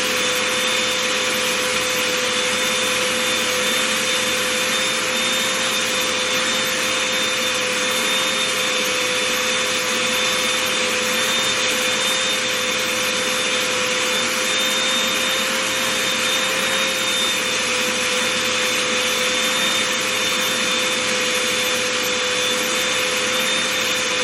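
Vacuum cleaner running steadily with an even whine, being run over fuzzy slippers.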